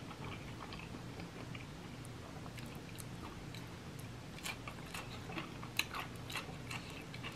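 Quiet, close-up mouth sounds of a person chewing food. In the second half there is a run of crisp crunching clicks as a raw cucumber slice is bitten and chewed.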